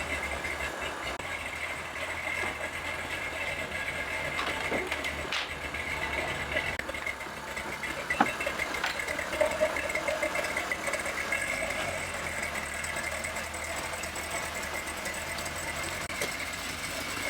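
Ford Ranger truck's engine running steadily at low revs as the truck is driven off its trailer, after sitting unrun for a few days. A few short clicks or knocks come through about five and eight seconds in.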